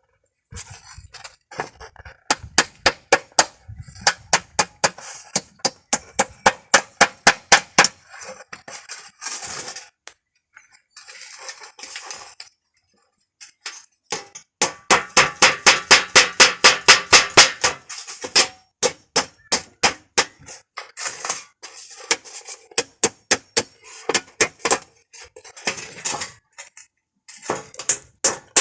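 Hammer driving nails into car-tyre rubber: quick runs of blows, several a second, with a metallic clink, broken by short pauses.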